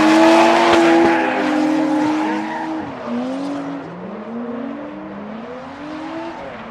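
Two drift cars, a Nissan Skyline and a Toyota Mark II, running in tandem with engines at high revs and tyres screeching. The sound is loudest in the first couple of seconds as they pass close. After that the engine notes keep rising and falling as the throttle is worked, over a steady hiss of sliding tyres.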